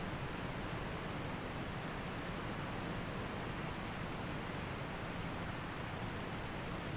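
Waterfall rushing steadily: an even wash of falling water with no breaks or changes.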